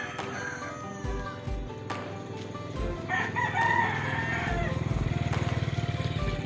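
A rooster crowing about three seconds in, over background music with a steady beat. A low, fast-pulsing hum comes in during the second half.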